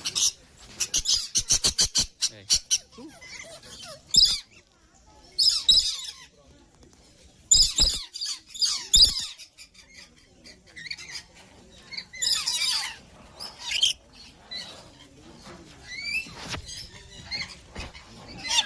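Birds squawking in several harsh, high-pitched bursts, with a quick run of sharp clicks near the start.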